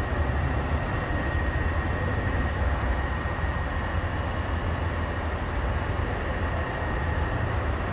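Garbage truck's diesel engine running with a steady low rumble and a faint high whine, no change in pace.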